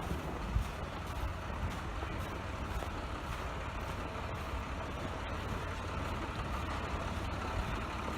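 Steady low rumble of a motor vehicle's engine, running evenly without revving.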